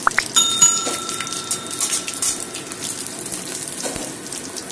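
Prawns and whole spices frying in hot mustard oil in an aluminium kadai: a steady sizzle with scattered crackles and pops. A steady ringing tone sounds over it from about half a second in for about two and a half seconds.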